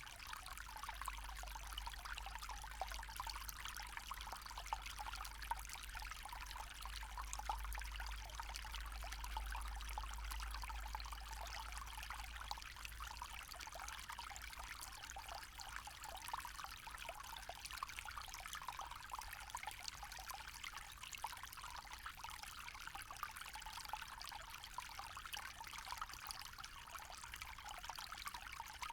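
Small forest stream trickling and babbling steadily over stones, with a low rumble underneath that is stronger in the first half.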